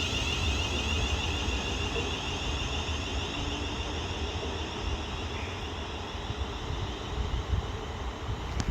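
London Northwestern Railway Class 350 electric multiple unit pulling away, its traction motors giving a steady high whine over running noise; the whine fades about five seconds in.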